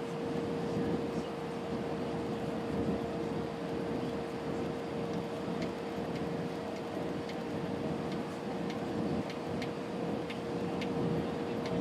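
Steady cabin noise of an Airbus A320neo airliner: an even rush of engines and airflow with a constant hum running through it. Faint light ticks come now and then in the second half.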